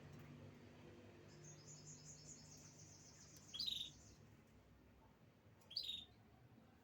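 Canary singing: a quick, even trill of high notes lasting a few seconds, broken by a short loud chirp, then one more loud chirp about two seconds later.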